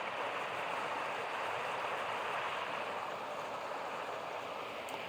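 Floodwater rushing steadily down a swollen creek, running up a good 4 to 5 feet.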